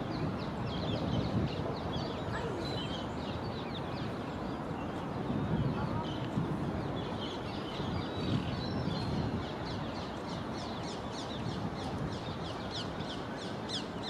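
Wild birds calling over a steady outdoor background, with many short, high, falling chirps that come thick and fast in the last few seconds.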